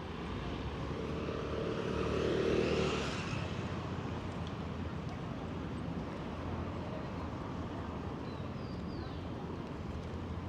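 A motor vehicle passing close by on a city street, growing louder to a peak about two and a half seconds in and then fading, over a steady background of traffic.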